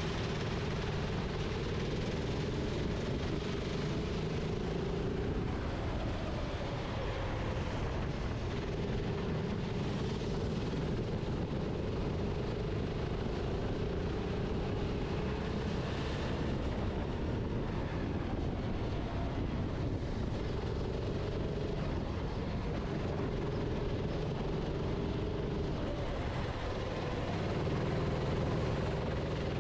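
Go-kart engine heard from on board, running hard with its note wavering and dipping briefly every few seconds as the kart laps, over a steady rush of wind noise.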